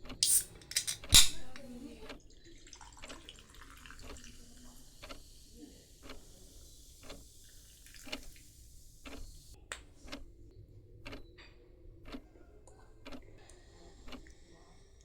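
A few sharp clicks and one loud knock, then a carbonated drink fizzing with a steady hiss for several seconds before it cuts off; soft taps come about once a second.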